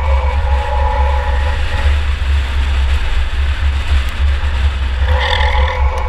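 2004 Chevrolet Impala enduro car running on the track, heard from inside the car: a loud, steady engine and road rumble with heavy low-end buffeting. A brief higher-pitched squeal cuts in about five seconds in.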